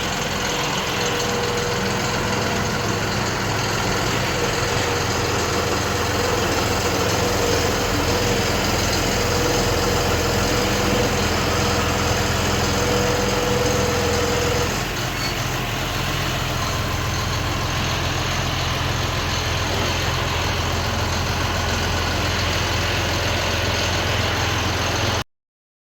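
John Deere 5405 tractor's three-cylinder diesel engine running steadily. A high whine over it stops about halfway through, and the engine sound eases slightly at the same moment.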